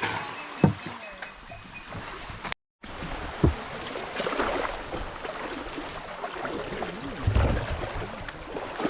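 Steady outdoor wind and water noise with a few faint knocks, broken by a sudden gap of silence about two and a half seconds in.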